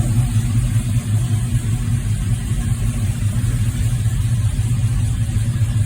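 1966 Chevy II Nova's 350 small-block V8 idling steadily.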